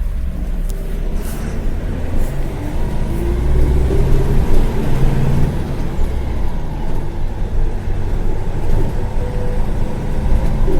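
Agrale-chassis micro-bus heard from inside the cabin while under way: the diesel engine runs steadily, and a whine rises in pitch a few seconds in and again later as the bus gathers speed.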